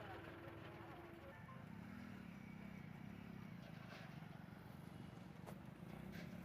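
Faint outdoor background, almost silent, with a low wavering droning hum.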